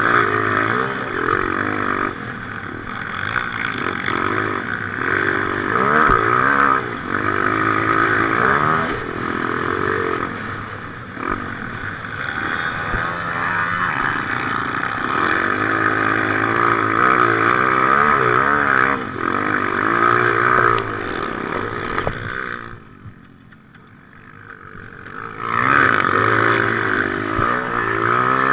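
Motocross bike engine revving up and down hard, heard close from a helmet-mounted camera. About three-quarters of the way through, the engine drops away almost to nothing for a couple of seconds, then pulls hard again.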